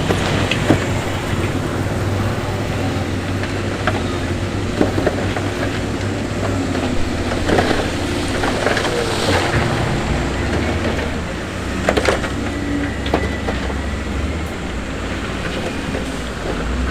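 Heavy diesel construction machinery running steadily, with scattered clanks and knocks of stone and metal over the engine.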